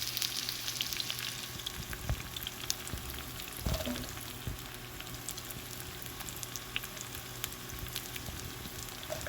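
Chopped onions, bell pepper, garlic and green chillies frying in hot oil in a pan: a steady sizzle with fine crackling, and a couple of low knocks about two and four seconds in.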